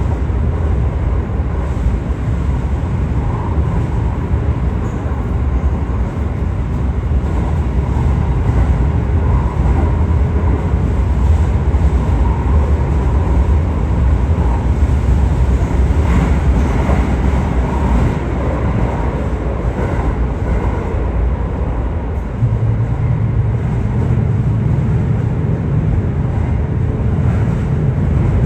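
Aichi Loop Railway 2000 series electric train running between stations, heard from inside the front car: a steady low rumble of wheels on rails and traction gear. A deeper steady hum sets in about three-quarters of the way through.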